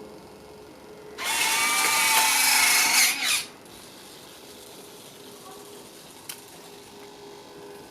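Electric retractable landing gear units of an FMS P-51D Mustang RC model whirring for a couple of seconds as the gear cycles, stopping suddenly; a single light tick follows later.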